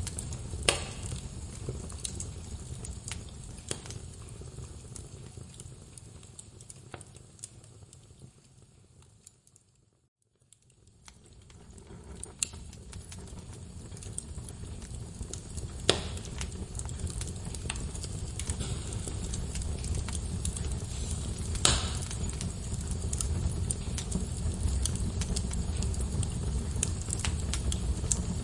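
Wood fire burning in a fireplace: a steady low rumble of flames with scattered sharp pops and crackles from the logs. About ten seconds in the sound fades down to near silence, then fades back up.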